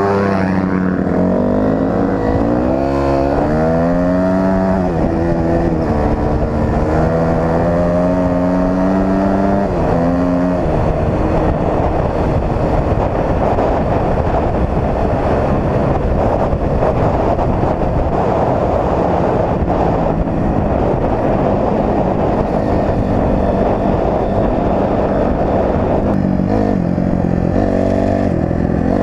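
Dirt bike engine revving up and down through the gears, its pitch repeatedly rising and dropping for the first ten seconds or so. Then a dense, steady rush of noise at speed drowns the engine tone, until its pitch climbs and falls again near the end.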